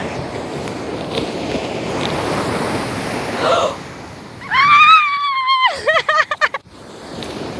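Sea surf rushing onto a beach. About halfway through, a loud high-pitched cry is held for about a second, then breaks into a quick string of short cries.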